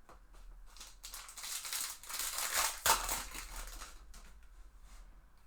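Crinkling of a foil trading-card pack wrapper being torn open and handled, a rustle lasting about three seconds with a sharp snap near its loudest point.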